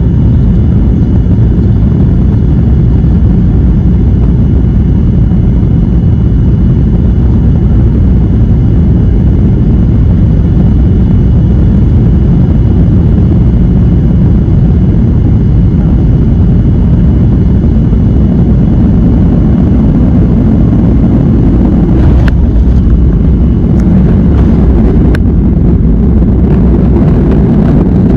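Airliner cabin noise: a steady, loud low rumble from the jet engines and the airframe, heard inside the cabin, with a faint steady high tone. A few brief clicks come about 22 and 25 seconds in.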